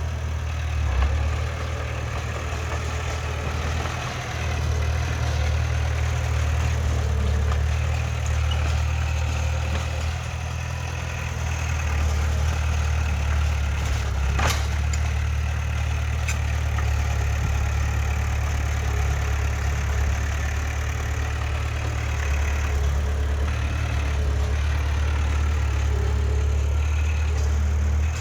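Heavy earthmoving machine's engine running steadily with a deep rumble, and a single sharp click about halfway through.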